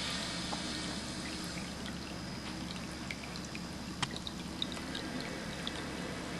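Water from a ceramic leaf cat drinking fountain trickling and splashing steadily into its bowl, with scattered small drips.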